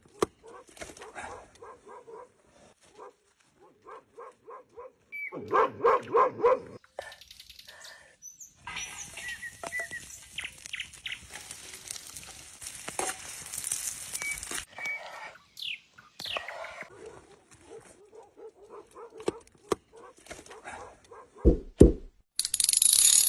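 Dogs whining and barking in repeated short calls, the loudest cluster about six seconds in. In the middle comes a long stretch of steady rushing noise.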